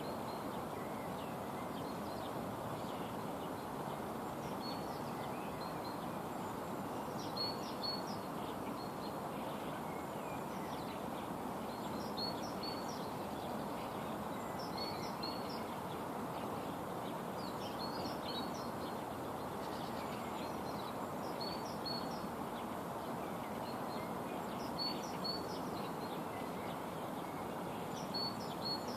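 A bird repeating short, high chirps in little groups every two to three seconds over a steady background noise.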